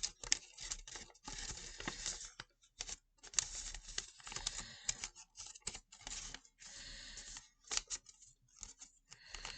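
A sheet of origami paper being folded and creased by hand: irregular rustles, crinkles and short sharp scrapes of paper as it is pressed and smoothed along a fold.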